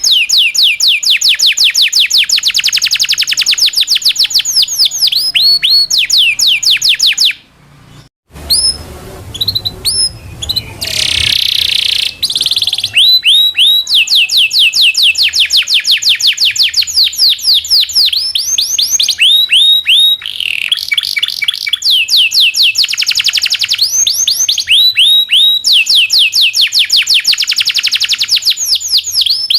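Local canary singing a long song full of rolls: fast trills of repeated downward-slurred notes, phrase after phrase. There is a brief break about a quarter of the way through.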